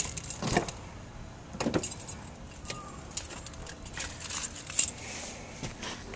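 Keys jangling among scattered light clicks, clinks and rustles of handling, busiest about four to five seconds in.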